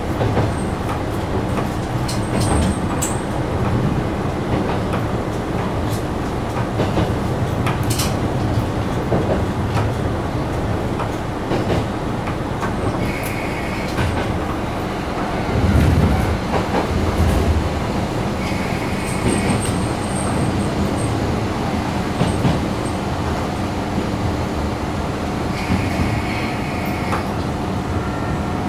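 Hitachinaka Seaside Railway diesel railcar running, heard from on board at the front: a steady engine and wheel rumble with scattered clicks over the rail joints. Brief high wheel squeals come a few times, and the rumble swells louder for a moment about halfway through.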